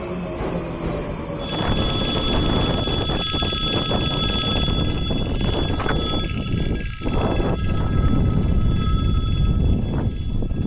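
ET2M electric multiple unit at a station: faint, slowly falling tones, then after about a second and a half a louder steady rumble of the train with several thin steady high-pitched tones running over it.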